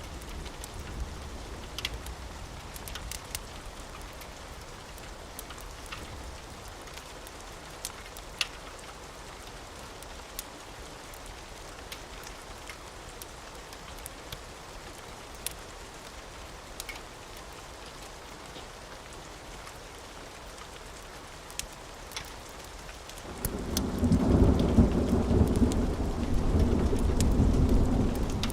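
Steady rain with scattered sharp clicks. A low thunder rumble fades out in the first couple of seconds, then about 23 s in a much louder roll of thunder swells up and rumbles on.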